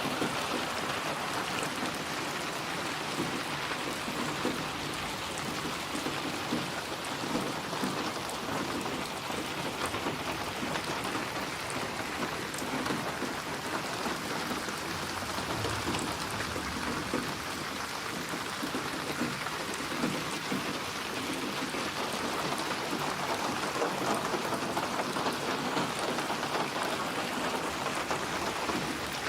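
Steady rain falling, an even hiss of drops on surfaces, with a low rumble of distant thunder underneath through the middle part.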